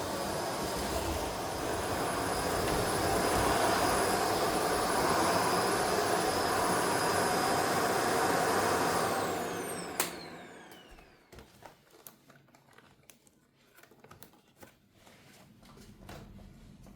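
A vacuum cleaner running with a steady high whine, then switched off about nine seconds in, its motor whine falling as it spins down, followed by a sharp click and a few small handling clicks.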